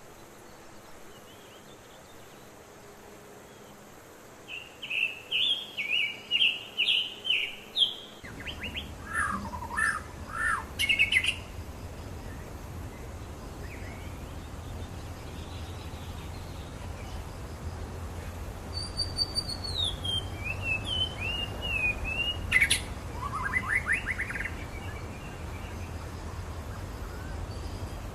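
Songbirds singing in a forest: runs of quick repeated chirps, then falling notes, and later a long descending whistle followed by a sharp chip and short downslurred notes. A steady low rumble comes in about eight seconds in and stays under the birds.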